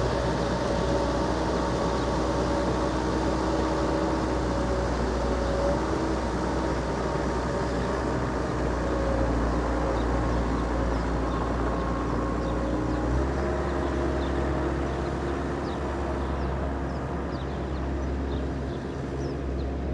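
Bobcat 773 skid-steer's diesel engine running steadily, its engine note shifting about two-thirds of the way through.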